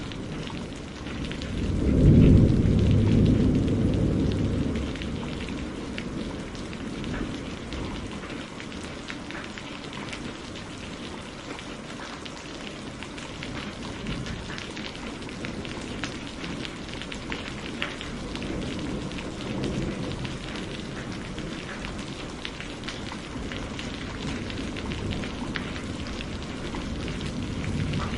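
Steady rain with a low rumble of thunder about two seconds in that swells and fades over a few seconds, and a fainter rumble later.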